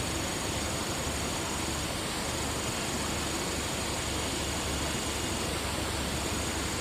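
Steady, even rushing noise with a faint thin high whine running through it.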